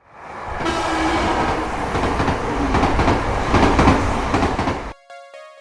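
Train sound effect: a train rumbling and clattering as it comes through, swelling in over the first second and cutting off abruptly about five seconds in. Soft musical chime tones follow.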